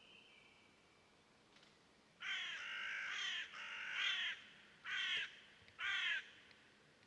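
A bird giving harsh, crow-like cawing calls: two longer calls about two seconds in, then two short ones.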